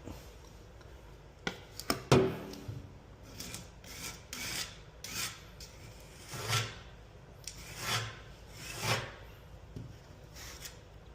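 Bondo body filler being scraped and spread with a hand tool: about five separate scraping strokes, after a sharp click about two seconds in.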